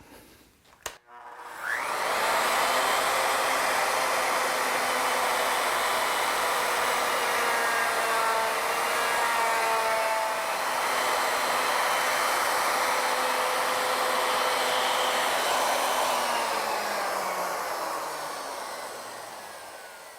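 A router mounted on a Legacy ornamental mill is switched on with a click, spins up and runs steadily as its bit cuts a detail into a wooden table-leg blank, then winds down near the end.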